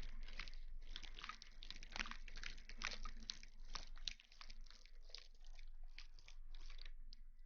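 Close-miked ASMR rustling: a dense, faint run of soft crackles and crunches, dipping briefly about four seconds in.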